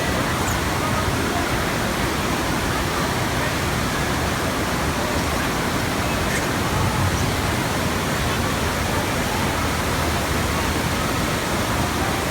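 Steady, loud rush of water pumped over the surface of an indoor surf simulator.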